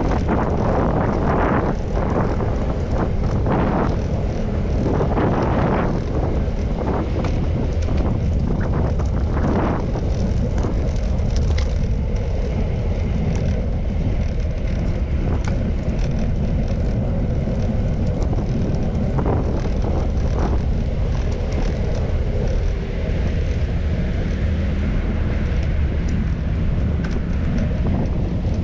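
Wind rushing over the microphone of a moving bicycle, a steady low rumble with several short gusts in the first ten seconds.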